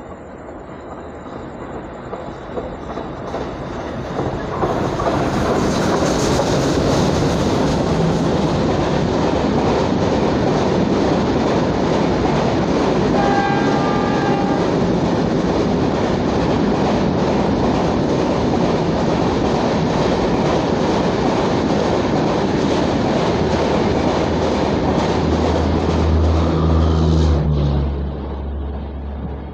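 Express passenger train approaching and running past at speed. The noise builds over the first few seconds into a long steady rush of wheels on rail, with a short horn note about halfway through. There is a low drone just before the sound drops off sharply near the end.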